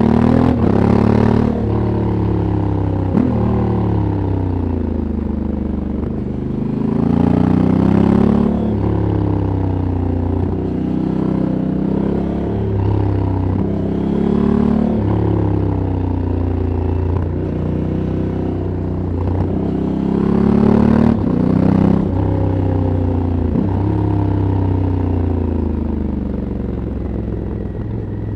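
Stock 2022 Honda CRF1100L Africa Twin Adventure Sports' parallel-twin engine and exhaust, heard from the rider's seat, pulling hard through the gears and rolling off for corners. The pitch rises with each pull and drops at each shift or roll-off, again and again.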